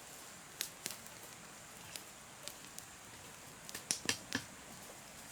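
A few scattered light knocks and clicks, with a quick cluster of them about four seconds in, over a faint steady hiss.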